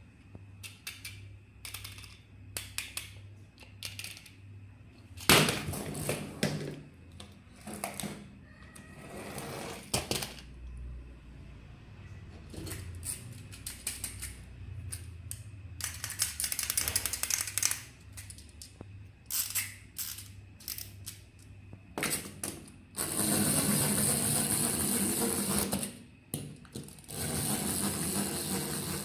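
Irregular plastic clicks and rattles from battery-operated toys and their packaging being handled. Near the end a steady mechanical whir from a small electric toy mechanism runs for a few seconds, stops, then runs again briefly.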